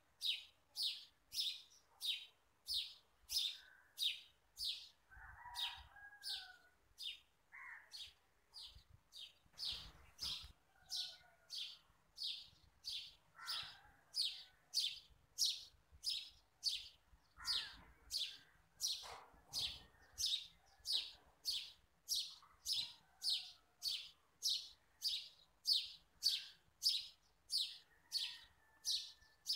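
A bird chirping over and over in a steady rhythm, about three high chirps every two seconds, with fainter, lower gliding calls in between and a few soft handling thumps.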